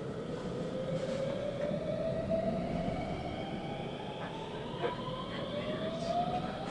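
Interior sound of a 521-series electric multiple unit under way: a rising electric whine from the inverter-driven traction motors as the train picks up speed, over steady wheel-on-rail rumble, with a few light clicks from the rails.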